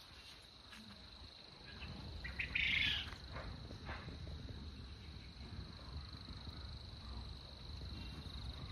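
A bird calls briefly about two and a half seconds in, over a thin steady high tone, with a few soft clicks and low rustle of movement around it.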